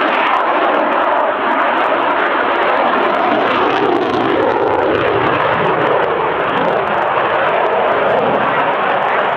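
Loud, steady jet noise from an RAF Typhoon FGR4's twin Eurojet EJ200 turbofan engines as the fighter flies overhead.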